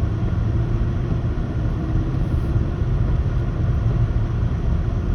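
Loaded coal freight train rolling past, a loud steady low rumble with no break.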